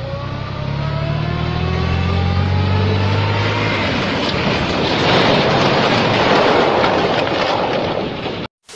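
A heavy vehicle running, with its pitch rising slowly over the first few seconds as a loud rushing noise builds up. The sound cuts off abruptly near the end.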